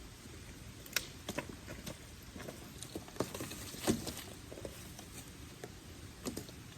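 Wood campfire crackling, with irregular sharp pops and snaps of burning twigs and branches, the loudest about a second in and near four seconds.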